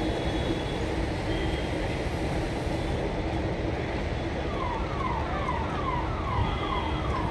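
Jammu Tawi Express passenger coaches rolling away along the track, with a steady rumble of wheels on rail. About four and a half seconds in, a repeated falling whistle-like sound starts and comes two or three times a second.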